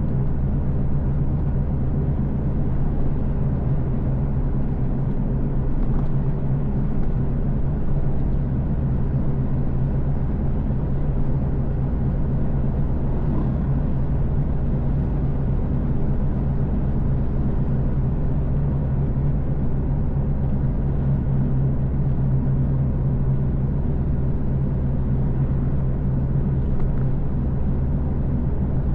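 A car being driven at steady speed: a constant low engine drone and road rumble that holds steady throughout.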